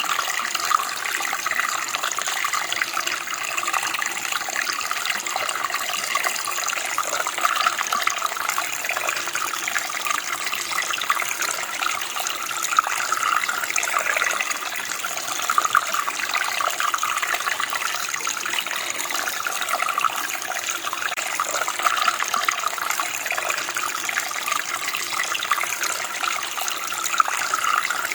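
Running water flowing and splashing steadily, a bright babbling rush with little low rumble.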